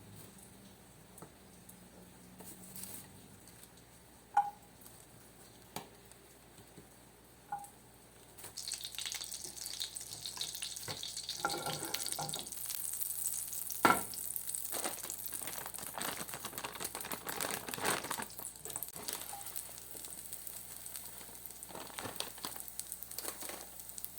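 A few light clinks, then from about eight seconds in a steady crackling sizzle like food frying in a hot pan, which eases off near the end.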